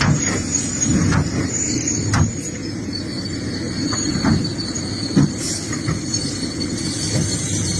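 Excavator working: a steady low diesel engine drone with a thin high whine over it that drops in pitch about three seconds in, and a few short sharp knocks.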